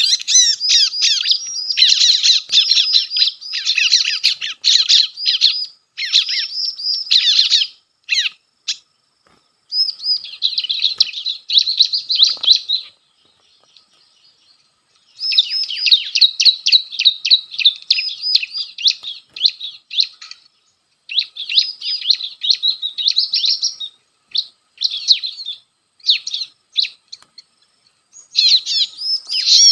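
Ciblek (prinia) calls: long runs of rapid, high, chattering notes. They break off briefly about eight seconds in and again for a couple of seconds near the middle.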